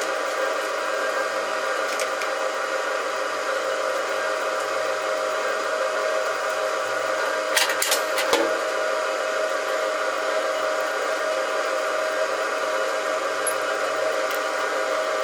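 Metalworking machine tool running with a steady whine, a few sharp clicks about halfway through.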